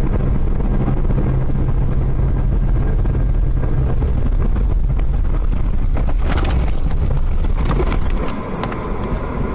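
A car driving: a steady low rumble of engine and road noise, which drops in level near the end.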